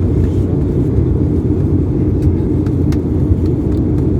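Steady low rumble of an airliner's cabin in flight just after takeoff, the engines and airflow making a constant deep drone.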